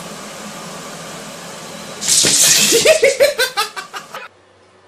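A steady background hiss, then about two seconds in a person bursts out laughing: a loud first burst followed by a quick run of short pulsing laughs that cuts off abruptly near the end.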